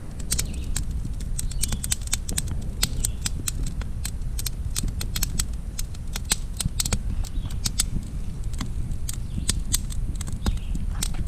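Freshly lit campfire of dry branches and shingle scraps crackling, with many irregular sharp snaps over a steady low rumble.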